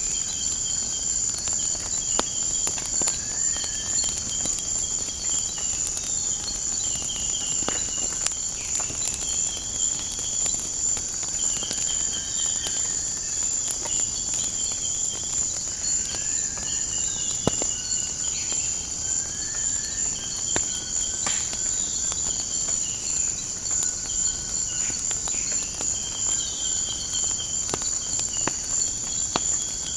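Steady high-pitched insect chorus with short repeated bird calls over it and scattered small crackles of a wood fire.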